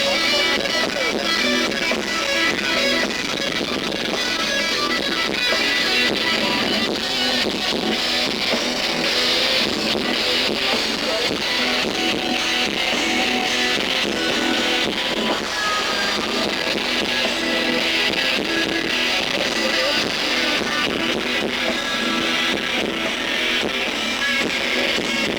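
Heavy rock band playing live, dominated by electric guitars. The sound is dense and continuous, with little bass.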